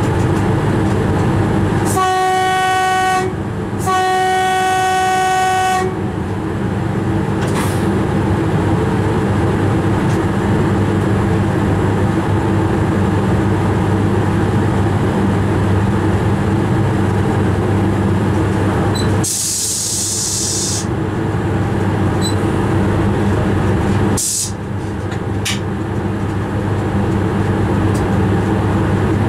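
Train horn sounding twice from the cab, a short blast and then a longer one, over the train's steady running hum. A burst of hiss comes about two-thirds of the way through, and a shorter one a few seconds later.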